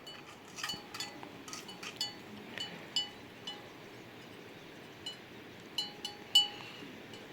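About fifteen irregular metal-on-metal clinks. The same piece rings briefly at one clear pitch each time, and the loudest strike comes near the end.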